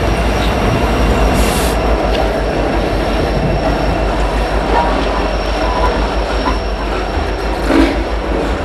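Diesel-hauled freight train of tank cars rolling through a rail yard: a steady heavy rumble of engines and wheels on rail, with faint wheel squeal and one louder knock near the end.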